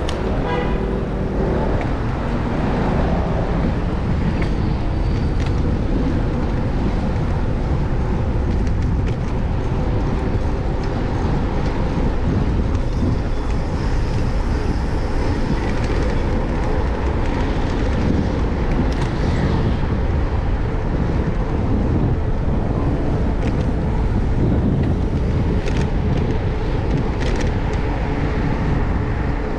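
Steady city street traffic and the low rumble of wind on the microphone of a moving bicycle, with cars passing.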